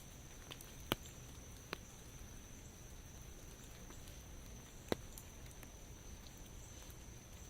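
Light rain falling steadily and faintly, with three sharp clicks of drops about a second, two seconds and five seconds in, over a thin steady high tone.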